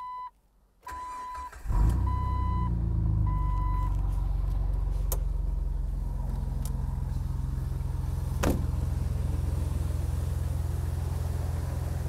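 Jeep TJ Wrangler's 4.0-litre inline-six started, catching about two seconds in and settling into a steady idle. A dashboard warning chime beeps in short pulses at the start, and a sharp knock sounds about eight and a half seconds in.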